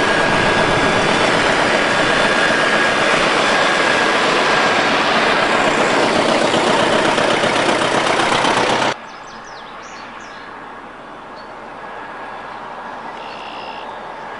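Antique farm tractor engines running, loud and steady until an abrupt cut about nine seconds in, after which the engine sound is much fainter.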